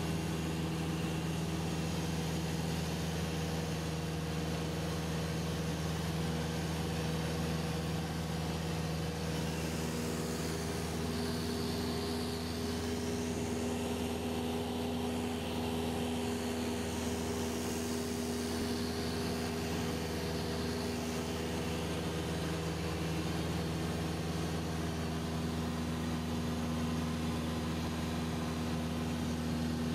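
Cessna 172SP's four-cylinder Lycoming engine and propeller droning steadily in level cruise, with a slight shift in its tones about nine seconds in.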